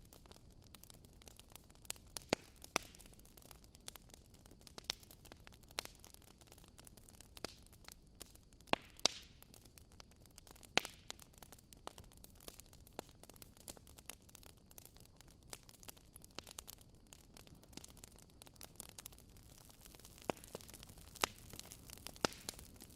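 Fire crackling: irregular sharp pops and snaps over a soft steady hiss, with a few louder pops.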